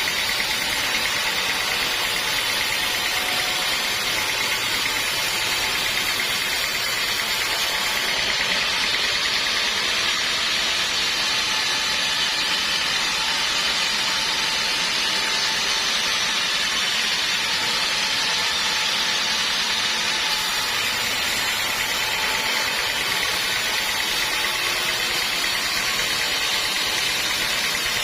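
Sawmill machinery running steadily, a continuous even mechanical noise without breaks.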